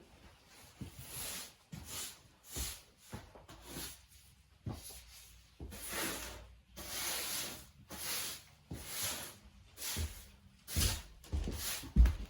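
Broom sweeping debris across a floor: a series of uneven brushing swishes, with a sharp knock near the end.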